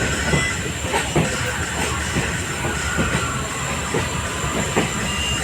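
ICF passenger coach running along the track: a steady rumble and rushing noise, with the wheels clicking over rail joints about twice a second.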